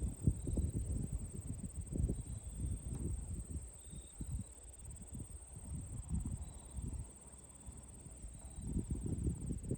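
Wind gusting over the microphone in irregular low rumbles, easing off for a moment about seven seconds in and building again near the end, under a steady high insect trill with a few faint short chirps.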